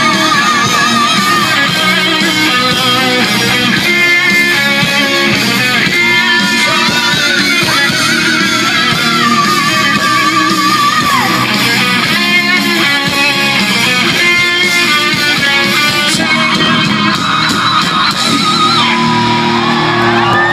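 Live rock band playing an instrumental passage led by electric guitar, the lead line full of bent and wavering notes over the full band.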